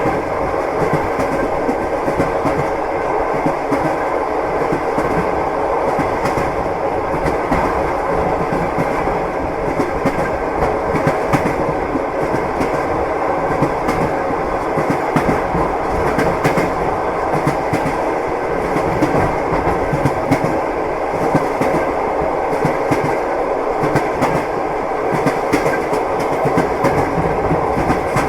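Train wheels clattering over the rail joints, heard inside a moving passenger carriage: a steady rumble and rattle with a continual run of knocks from the wheels.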